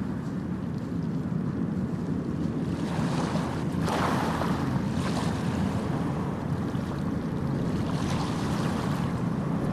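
Steady rushing of water with a deep rumble underneath, swelling brighter a few times, about four, five and eight seconds in.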